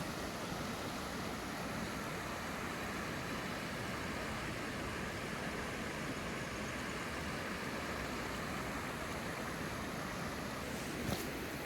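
Steady rain falling, an even hiss, with a couple of faint clicks near the end.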